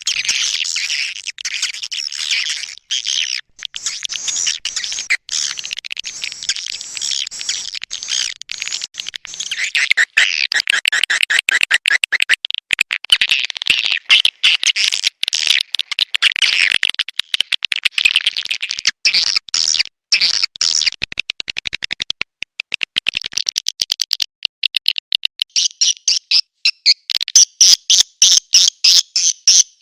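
Swiftlet calling sound: a dense chatter of rapid high chirps and twittering from many swiftlets, the kind played to lure swiftlets into a nest house. Near the end it settles into a quick, regular train of chirps, about three a second.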